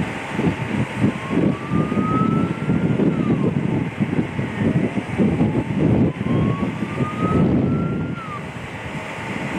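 An emergency vehicle siren wailing in the distance: two slow rising sweeps, each ending in a quick drop. Under it runs a loud, uneven low rumble.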